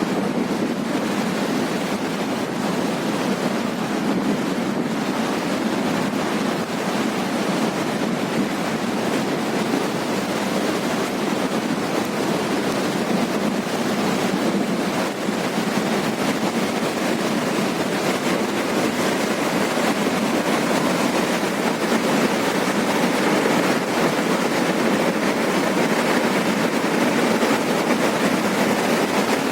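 Steady rushing of the Teesta River in flash flood after a cloudburst: a broad, unbroken roar of fast, swollen water.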